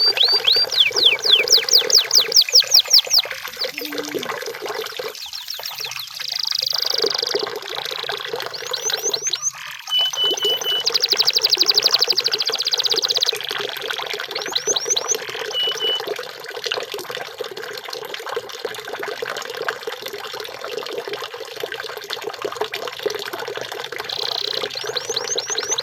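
Canary singing: runs of quick falling whistled sweeps, a very fast trill in the middle, and short held high notes.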